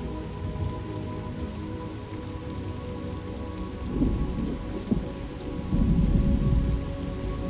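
Thunderstorm ambience: rain falling steadily, with thunder rumbling about four seconds in, a short sharp clap near five seconds, and a longer, louder rumble around six seconds.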